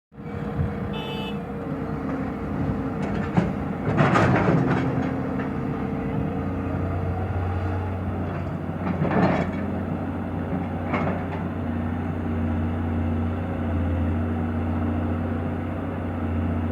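Heavy machine's diesel engine running steadily, with several loud clanks and scrapes; the biggest come about four seconds in and about nine seconds in.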